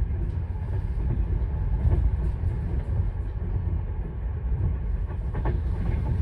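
Steady low rumble of a passenger train carriage in motion, heard from inside the sleeper compartment, with a few faint clicks.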